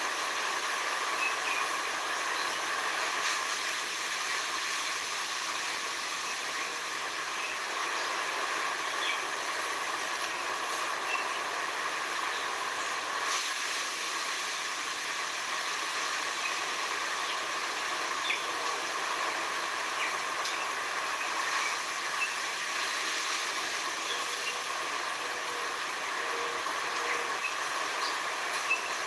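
Steady nature ambience: an even, unchanging hiss with faint brief chirps scattered through it.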